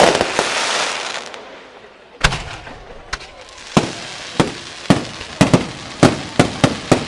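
Aerial fireworks: a dense crackle dies away over the first two seconds, then sharp single bangs follow, at first about one a second and coming faster toward the end.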